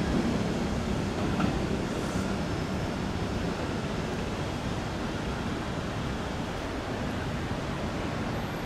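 Keikyu electric commuter train pulling slowly toward the platform: a steady low rumble of wheels on rails and running gear, easing off a little as it slows.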